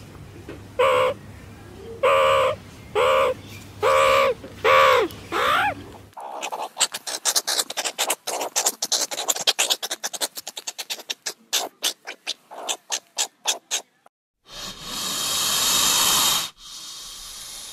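A meerkat gives about six short pitched calls, then a long run of rapid clicks. About fourteen seconds in, a spectacled cobra hisses twice, long and breathy, the second hiss fainter.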